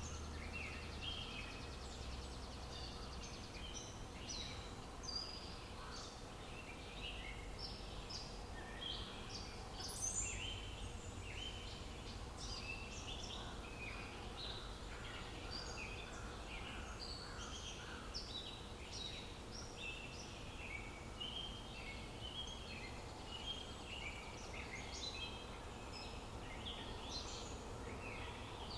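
A chorus of many songbirds, with short chirps and trills overlapping throughout, over a steady low rumble of outdoor ambience.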